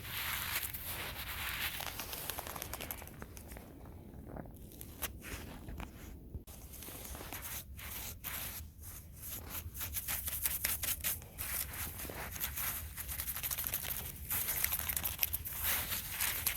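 Close, irregular crinkling, crunching and rustling from hands-on winter garden work: a run of short scrapes and crackles.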